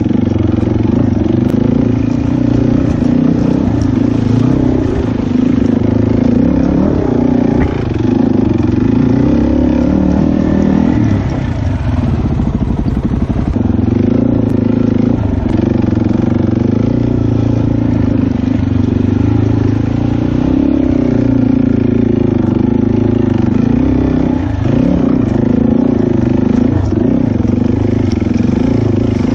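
Dirt bike engine running while being ridden, its pitch rising and falling steadily with the throttle.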